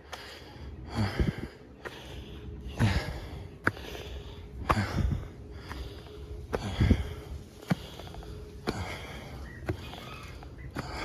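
A man breathing hard and rhythmically close to the microphone, a heavy breath about every two seconds, out of breath from climbing steep steps in the heat. A few sharp taps are heard between breaths.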